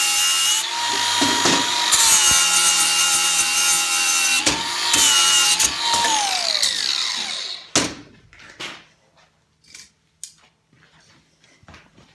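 Angle grinder grinding weld tacks flat on steel. About six seconds in it is switched off and its whine falls away as it winds down, followed by a few light knocks.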